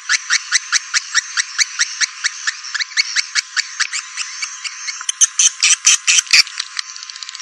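Swiftlet lure-call recording: edible-nest swiftlet chirps repeated in a fast, even train of about five a second, with a louder burst of dense twittering about five seconds in, then faster, quieter ticking near the end. The sound is thin and high, with nothing below the mid range.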